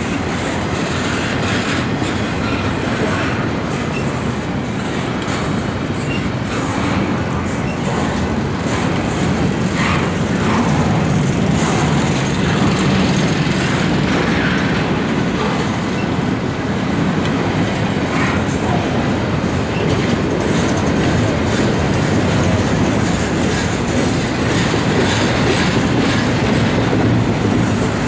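Intermodal freight train's cars rolling past: a steady rumble with wheels clattering over rail joints and a few faint, brief wheel squeals.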